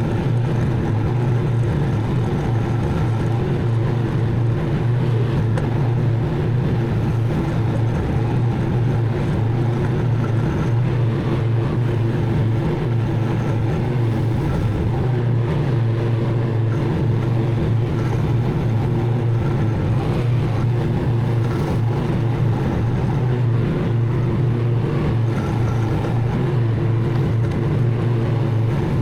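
Zero-turn riding mower's engine running steadily with an even, unchanging drone.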